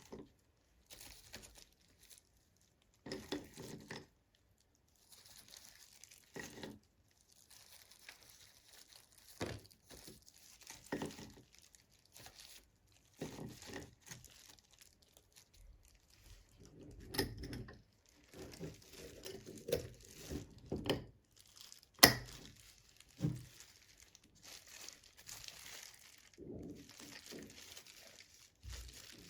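Intermittent rustling and crinkling of things being handled, with scattered light knocks and one sharp knock about three quarters of the way through.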